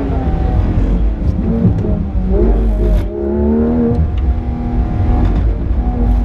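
Porsche 991.2 GT3 RS's naturally aspirated flat-six engine heard from inside the cabin at racing speed, its revs rising and dropping several times through gear changes and throttle lifts, over a steady low road and tyre rumble.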